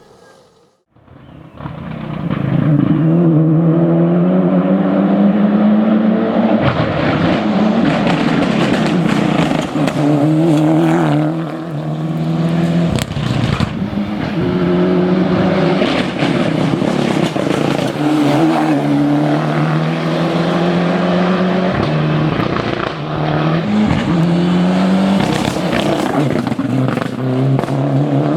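Ford Escort Cosworth rally car's turbocharged four-cylinder engine under hard acceleration, coming in about two seconds in. The revs climb and drop back again and again as it shifts through the gears.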